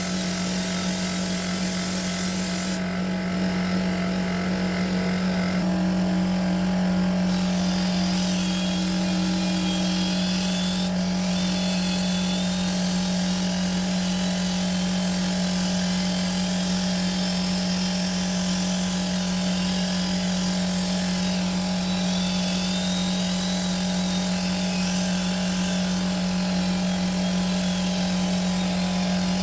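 Electric paint buffer running steadily at constant speed, a continuous motor hum with a hiss from the pad working the paint.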